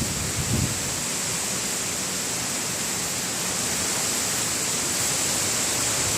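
Hurricane rain and wind making a steady, even rushing hiss.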